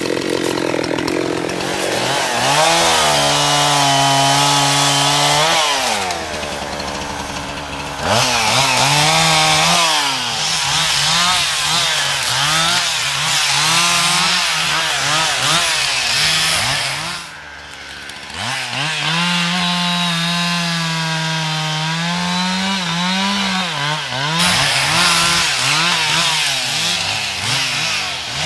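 Chainsaw cutting wood, its engine revving up and holding high for a few seconds at a time, then easing off and climbing again. The level drops off briefly about two-thirds of the way through before the saw revs back up.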